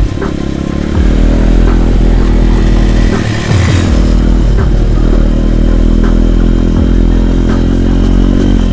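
Small motorcycle engine running hard under throttle, with clattering. The revs and loudness dip briefly near the start and again about three seconds in, then pick up again.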